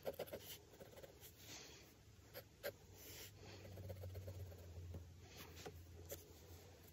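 Faint pencil strokes scratching on drawing paper, with a sharp tap about two and a half seconds in.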